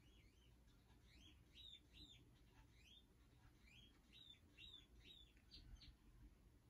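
Faint bird song: a string of short chirps, each rising then falling in pitch, in two runs of about four and five notes, over quiet room tone.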